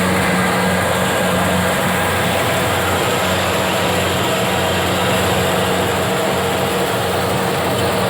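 An engine running steadily with a low, even hum and a dense mechanical noise over it.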